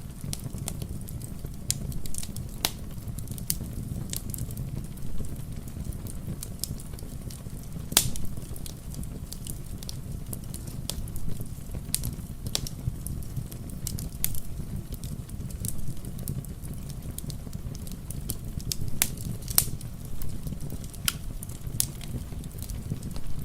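Wood fire crackling, with irregular sharp pops and snaps, the loudest about eight seconds in, over a steady low rush of rain.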